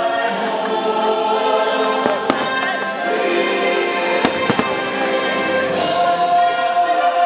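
Aerial fireworks shells bursting, with sharp bangs in two quick pairs about two and four and a half seconds in, over a loud music soundtrack with a choir singing held notes.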